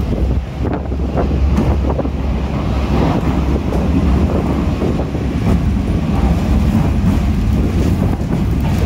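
Trolley car of a diesel-hauled sightseeing train running with its windows wide open: a steady low rumble with air noise blowing through the windows.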